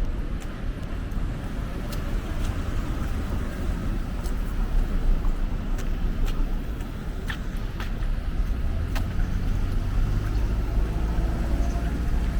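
Road traffic: a car passing, its low rumble growing louder over the last few seconds, with scattered light clicks.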